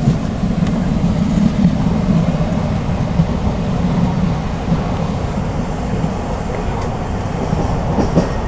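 Steady low rumble inside an ÖBB CityShuttle passenger coach as the train runs along the line, with wheels rolling on the rails.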